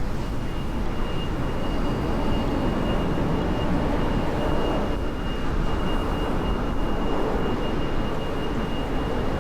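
Strong wind buffeting a camera microphone: a loud, steady, dense rumble that stays even throughout, with a faint thin high tone running through it.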